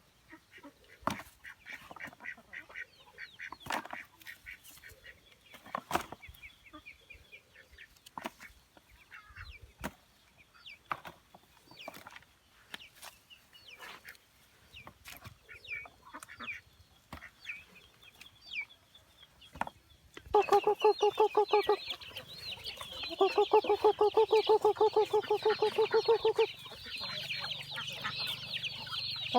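Birds calling: faint chirps and scattered clicks, then from about twenty seconds in, loud, rapidly repeated calls with a high chattering above them.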